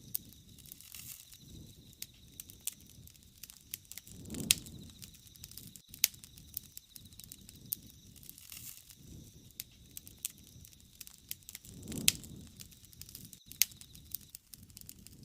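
Wood fire burning, with irregular sharp crackles and pops throughout. Two brief low swells of flame noise come about four and twelve seconds in.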